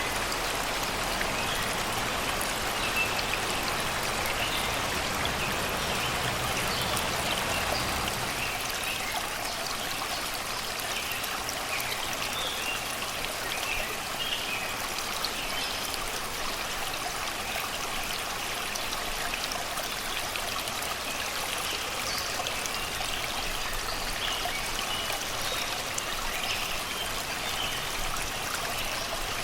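Shallow river flowing steadily over and around rocks and stones, a constant babbling wash of water, with birds chirping and singing in the forest throughout.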